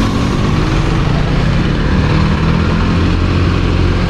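Kawasaki Ninja motorcycle engine running steadily at low revs while riding, over a steady rushing noise.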